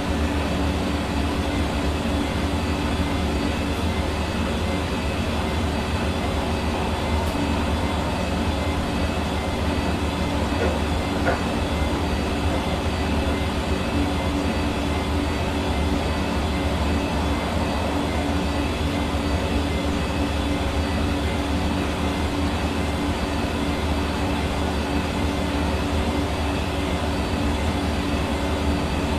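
Hair dryer running steadily: an even rush of blown air with a constant motor hum underneath, unchanging in level and pitch.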